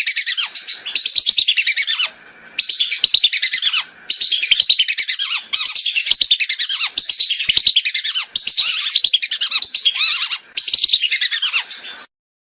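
Whistling ducks (belibis) calling: loud bursts of rapid, high whistled notes, about seven phrases each a second or two long with brief breaks between, stopping just before the end.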